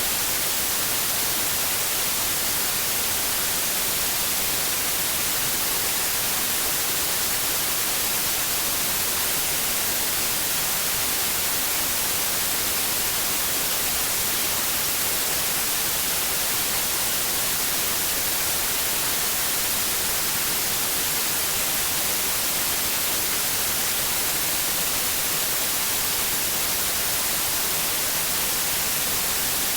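Steady white noise: an even, unchanging hiss, brightest in the high frequencies, played as a sleep aid for babies.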